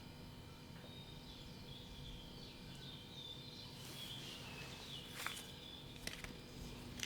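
Small birds chirping over steady outdoor ambience, with a few sharp clicks about five and six seconds in.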